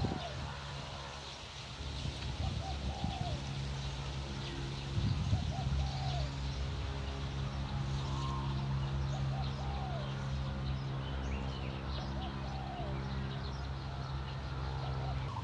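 Birds calling over and over in short, arched notes every second or two, with a steady low mechanical hum beneath that starts about two seconds in.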